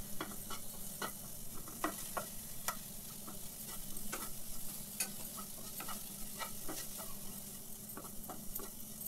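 Onion, tomato and spice masala sizzling in a non-stick wok while a wooden spatula stirs and scrapes it, giving irregular light taps and scrapes over a steady sizzle. This is the bhuna stage, frying the masala until it is cooked through.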